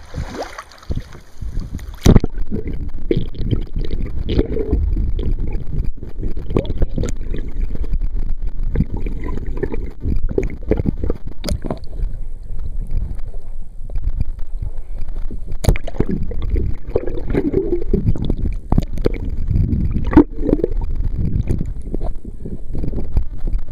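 Water sloshing against a kayak with wind buffeting the microphone, and scattered sharp knocks and clicks of handling on the boat.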